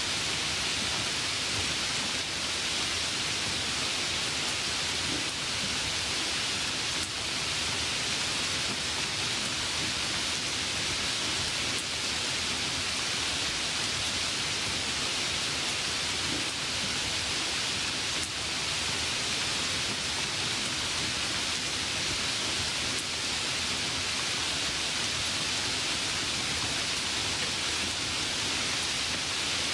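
Steady, even hiss with no distinct events, brightest in the upper range.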